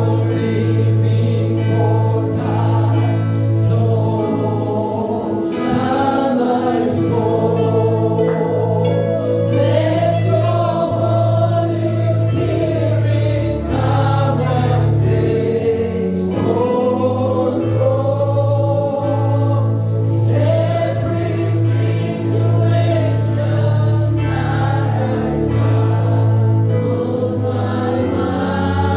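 Gospel choir singing a slow worship song with a band: sustained bass notes that change every couple of seconds under the sung melody, and occasional drum or cymbal hits.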